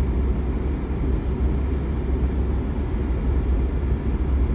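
Steady low rumble of a vehicle driving, engine and tyre noise, heaviest in the deep bass.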